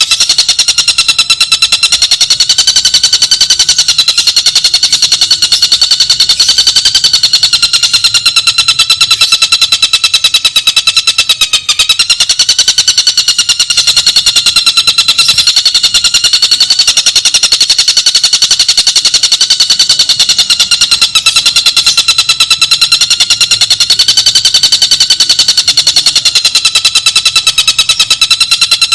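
Tengkek buto kingfisher song played as a continuous, very fast rattling trill. It is loud and unbroken, its pitch wavering slightly, with one brief catch near the middle.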